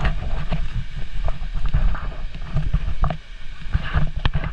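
Wind buffeting the microphone, with irregular rattles and knocks like those of a mountain bike riding over rough ground.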